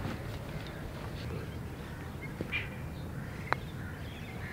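Birds calling in short chirps over steady open-air ambience, with a single sharp click about three and a half seconds in.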